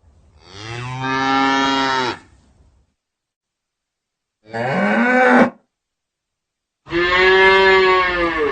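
Cow mooing three times: a long moo, a short moo rising in pitch about halfway through, and another long moo near the end, with silence between the calls.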